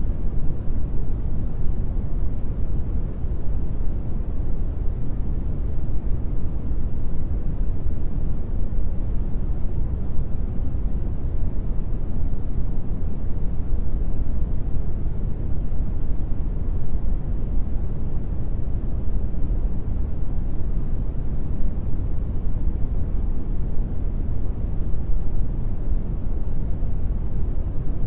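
Steady brown noise: an even, deep hiss with most of its weight in the low end, fading toward the highs.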